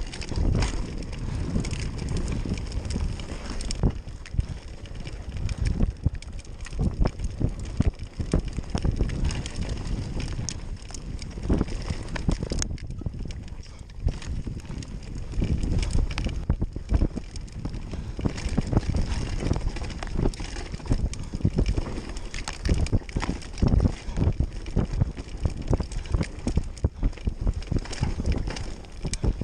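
Mountain bike rolling down a rough dirt trail: a steady rumble from the tyres, frequent knocks and rattles from the bike over bumps, and wind buffeting the microphone.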